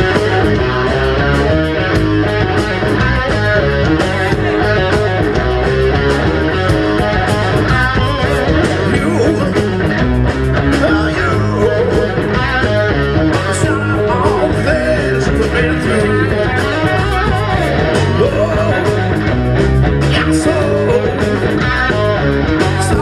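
A rock band playing live, with electric guitars, bass and drums, in the instrumental opening of a song before the vocals come in.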